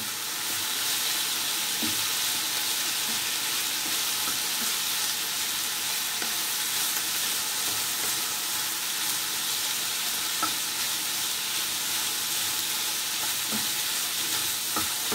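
Diced meats, ham, peppers and onions sizzling in oil in a frying pan, a steady hiss, stirred with a wooden spatula that scrapes and knocks faintly against the pan now and then.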